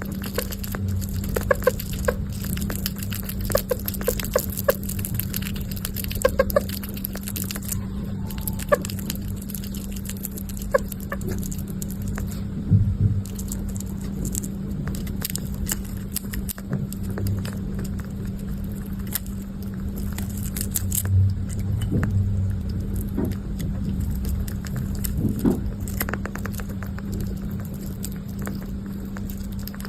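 Scattered small clicks and taps with a few short squeaks, over a steady low hum.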